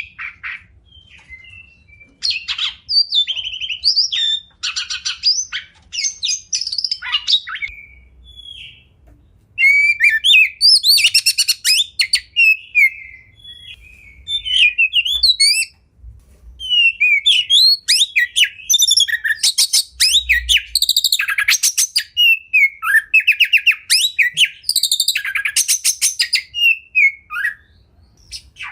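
Oriental magpie-robin (kacer) singing a long, varied song of loud whistles, rapid trills and chattering notes in quick bursts, with a short lull about eight seconds in.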